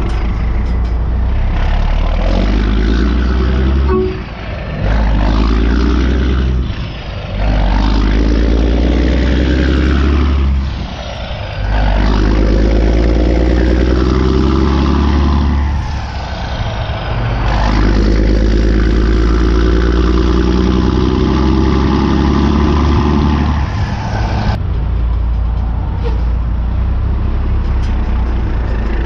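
A vehicle engine or motor running in stretches of several seconds, with brief drops in level between them and the pitch gliding up and down at times.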